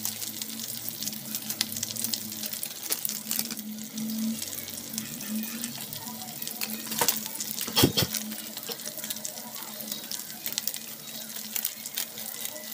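Onions and spices sizzling and crackling in hot oil in a cooking pot, with a sharp knock about eight seconds in and a faint steady low hum underneath.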